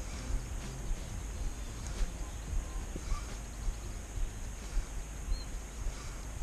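Open-air ambience: a steady high hiss over a low rumble, a few soft knocks, and two short faint bird chirps near the end.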